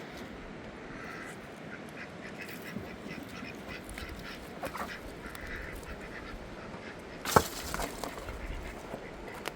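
Scattered short quacking bird calls, with one sharp knock a little past seven seconds in.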